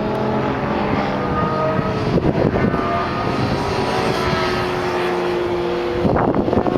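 Motorcycle engine running at a steady speed, its note holding nearly level with a slight downward drift, under rough wind buffeting on the microphone that grows stronger about six seconds in.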